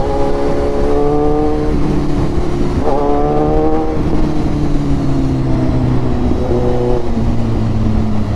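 Kawasaki Ninja 1000's inline-four through an Austin Racing full exhaust system, revving while riding. Engine pitch rises sharply at the start and again about three seconds in, falling away after each, with a smaller rise near the end.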